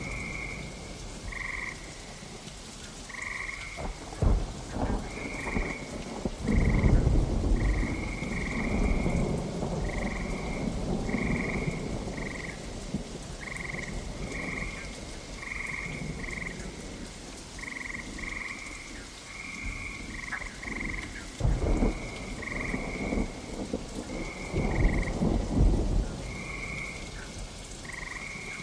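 Steady rain with several rolls of low thunder that swell and fade. Frogs call throughout in short, high, repeated calls about once a second.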